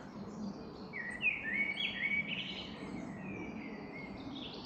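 Birdsong: a small bird sings a quick run of high, stepped chirping notes from about a second in, over faint steady background noise.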